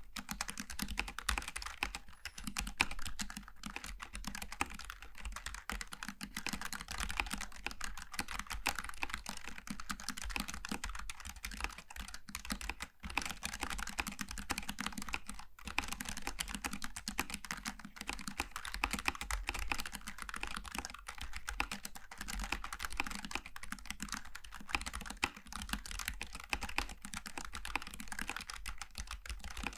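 Continuous fast typing on a Logitech G915 TKL low-profile mechanical keyboard with GL Tactile switches: a dense stream of key clicks, with a brief pause about thirteen seconds in.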